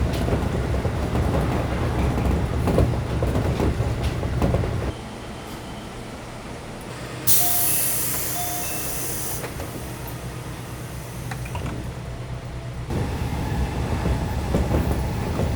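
Local passenger train running: a steady low rumble with rail clatter, which drops to a quieter stretch partway through and then comes back. In the quiet middle there is a sudden sharp hiss lasting about two seconds, with two short faint tones.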